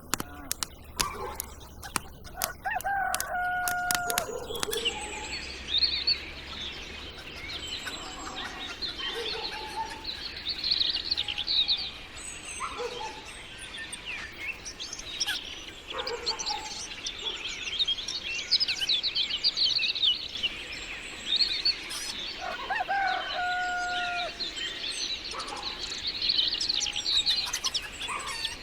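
A rooster crows twice, about three seconds in and again near the end, over continuous chirping of small birds. A run of sharp clicks sounds in the first few seconds.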